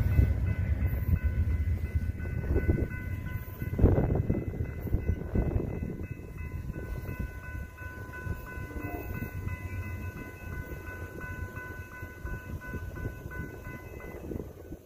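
Amtrak passenger train rumbling away and fading as it departs, while a railroad grade-crossing bell rings steadily and then stops near the end.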